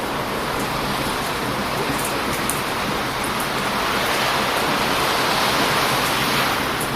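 Heavy ocean surf breaking on a beach: a steady wash of waves that swells into a louder surge from about halfway through and eases off near the end. A few faint crackles from a wood campfire sound over it.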